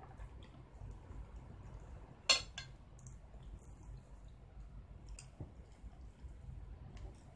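Cutlery clinking against a dish: two sharp clinks close together about two seconds in, then a few faint clicks later.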